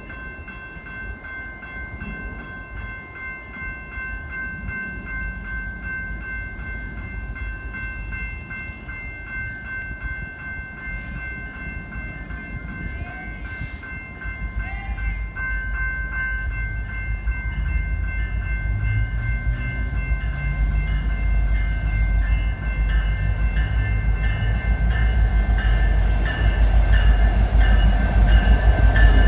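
Diesel locomotives of a BNSF intermodal freight train approaching, their low rumble growing steadily louder until the lead unit draws close near the end. A set of steady high ringing tones runs throughout.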